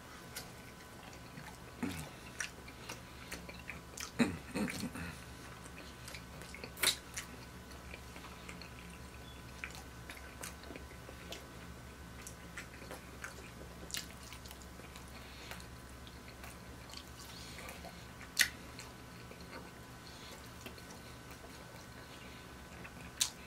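Close-miked chewing and mouth sounds of a person eating a bite of pepperoni calzone, with scattered soft smacks and sharp clicks. The sharpest click comes about three-quarters of the way through.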